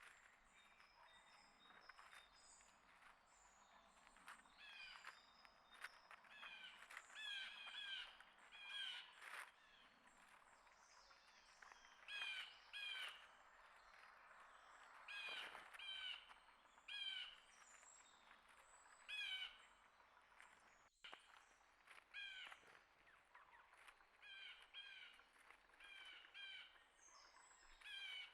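Wild birds calling, a short call with several stacked notes repeated many times, often in quick pairs, with fainter high chirps among them.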